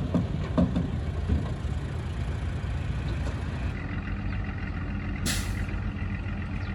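Bulldozer's diesel engine running steadily, with a few knocks in the first second or so and a short hiss about five seconds in.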